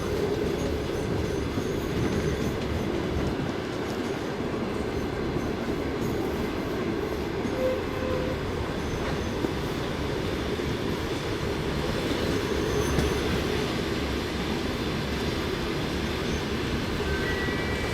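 Passenger train carriage heard from inside, running with a steady low noise and a couple of faint, brief squeals.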